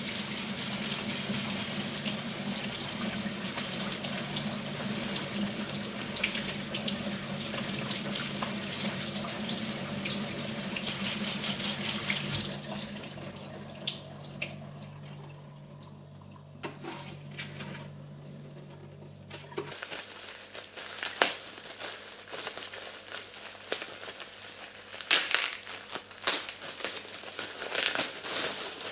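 Kitchen tap running into the sink in a steady stream for about twelve seconds, then turned off. A low steady hum stops soon after, and crinkling and handling sounds follow with a few sharp clicks.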